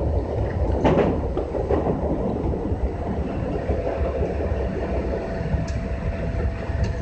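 JR West 201 series commuter train running on the rails, heard from the cab end: a steady rumble of wheels and motors with a sharp clack about a second in. A faint steady tone comes in about three seconds in.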